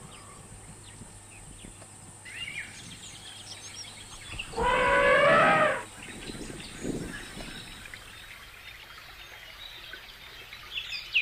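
An elephant trumpets once, a loud brassy call lasting just over a second, about four and a half seconds in. Birds chirp around it.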